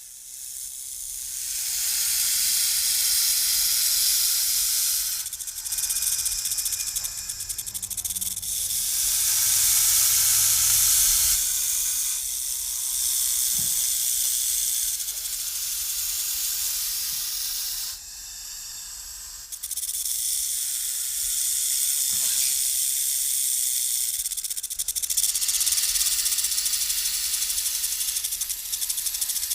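Snake hissing: a run of long, drawn-out hisses, each lasting several seconds, with brief dips between them and a short lull about eighteen seconds in.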